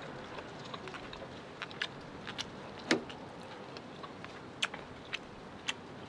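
Close-up chewing of grilled steak: scattered short wet mouth clicks and smacks, with one louder knock about three seconds in, over a steady background hiss.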